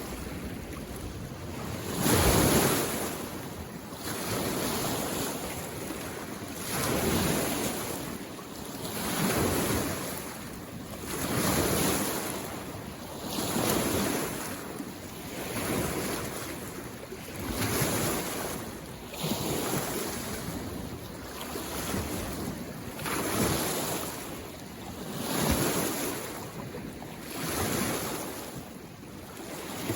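Small waves from a mountain lake washing onto the shore, one wash swelling and fading about every two seconds, the loudest about two seconds in.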